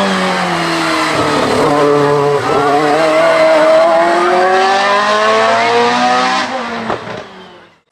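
Race car engine on a hill climb run, dipping in pitch at a gear change and then rising steadily under hard acceleration. It fades away over the last second or so as the car goes off up the course.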